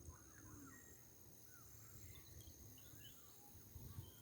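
Near silence: faint outdoor ambience with a few soft, scattered bird chirps over a steady high insect hum.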